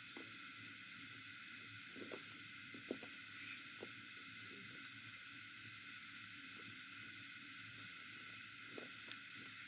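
Insect chirping in an even rhythm of about three high pulses a second, with a few soft clicks of eating scattered through.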